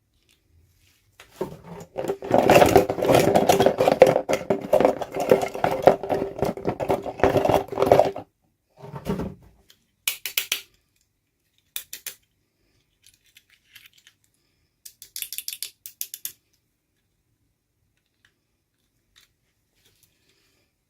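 Small plastic toy parts and packaging being handled, with rapid clicking and rattling for several seconds, then a few short bursts of clicks.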